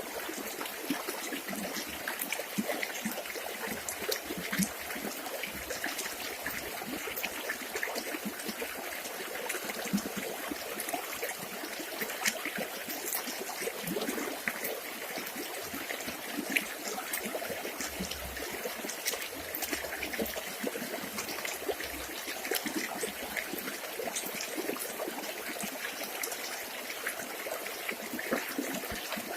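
River water flowing and trickling steadily, with many small splashes and gurgles.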